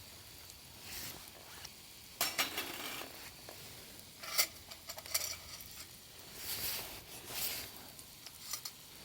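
Cooking utensils and cookware handled at a camp stove: scattered clinks and scrapes, a quick clatter about two seconds in and a sharp clink a little later, with short rustles between.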